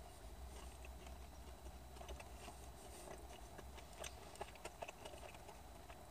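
Faint eating sounds: chewing chicken nuggets, with scattered small clicks over a low hum.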